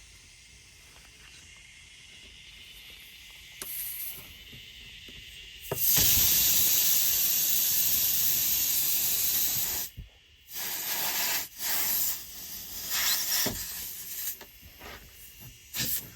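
Pressurised air hissing out of a punctured car tire through the nail hole. A faint hiss grows slowly at first, then about six seconds in a loud, steady rush of air runs for about four seconds and cuts off suddenly, followed by a string of shorter hisses.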